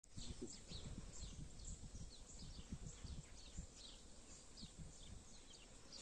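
Small birds chirping steadily at a distance: many short, high, downward-sliding chirps. A low irregular rumble runs underneath.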